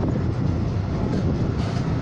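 A passenger train carriage in motion: the steady rumble of wheels on rails, heard through an open window.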